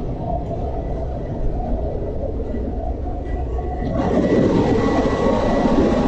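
Continuous loud drone of a ship's engine room at sea, with the main engine, generators and auxiliary machinery all running, over a faint steady whine. It grows louder and fuller about four seconds in.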